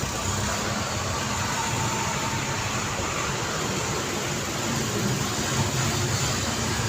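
City street traffic ambience: a steady wash of passing and idling road vehicles, with a low engine hum under an even hiss of tyres and traffic.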